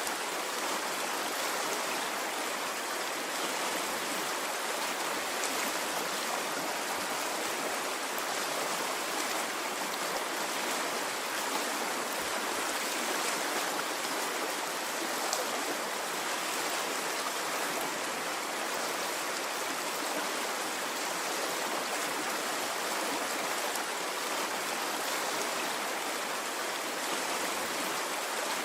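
Water stream flowing: a steady, continuous rush and gurgle of running water with no surges or breaks.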